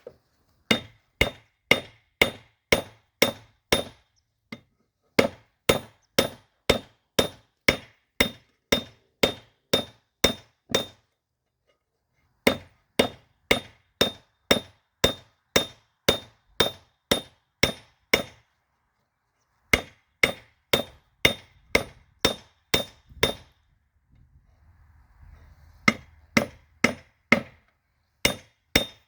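Hand hammer striking the steel of a railroad spike on an anvil during forging, about two ringing blows a second, in four runs of steady blows broken by short pauses.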